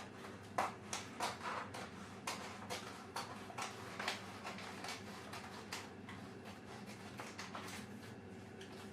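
Faint, irregular clicks and scrapes of self-adhesive vinyl film being cut along its edge, about two a second, thinning out and fading away after about six seconds.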